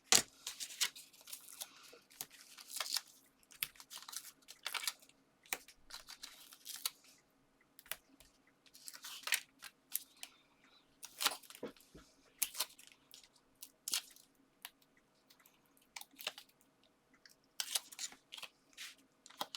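Irregular rustling, crinkling and small clicks of paper and card being handled, as foam pads are peeled from their backing and pressed onto a card topper.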